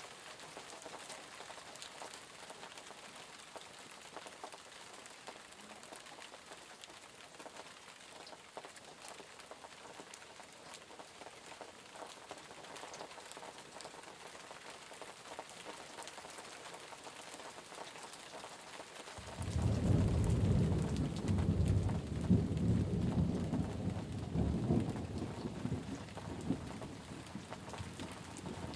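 Steady rain pattering, with fine drop ticks throughout. About two-thirds of the way through, a deep rolling thunder rumble sets in suddenly, is loudest for a few seconds, then slowly dies away.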